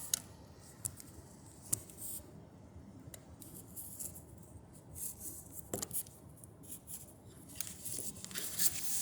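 Scattered light clicks and ticks of hand tools and parts being handled during engine-bay work, over a faint steady background.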